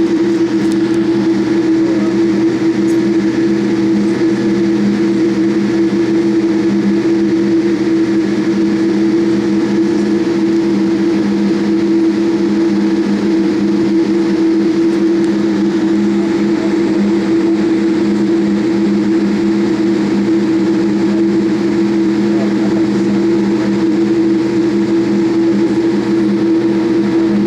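Boeing 787 Dreamliner cabin noise from a passenger seat: the jet engines and rushing air make a steady, unchanging drone with a pronounced low hum.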